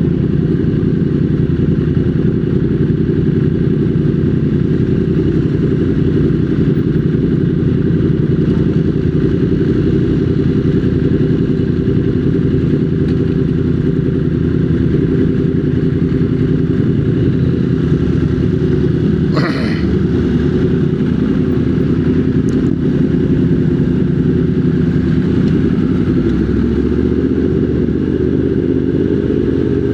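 Motorcycle engine running steadily while riding in traffic, with a brief higher-pitched sound about two-thirds of the way through.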